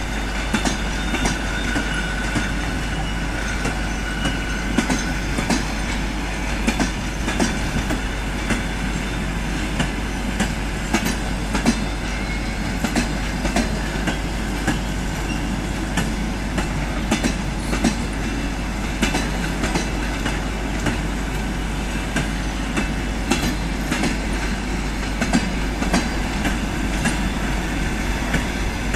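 Passenger coaches rolling slowly behind a ChME3 diesel shunting locomotive, wheels clicking and knocking irregularly over rail joints and points under a steady rumble. A faint wheel squeal comes through for a few seconds near the start.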